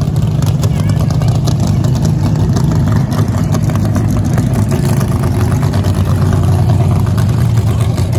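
Mk3 Ford Cortina drag car's engine running at a loud, steady, choppy low idle as the car creeps forward at low revs.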